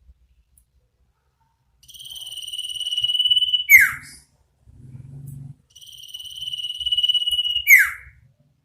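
Iora (sirtu/cipoh) calling twice: each call a long, steady high whistle that grows louder for about two seconds, then ends in a quick dropping note.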